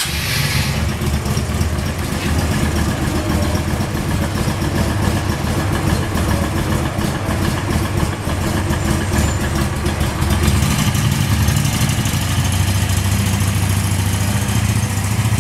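Suzuki VL250 Intruder's V-twin engine idling steadily with an even low pulse, getting a little louder about ten seconds in.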